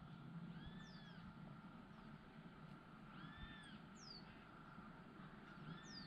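Faint bird calls: a short arched call repeats three times, about two and a half seconds apart, each joined by a quick falling whistle. A low steady hum runs underneath.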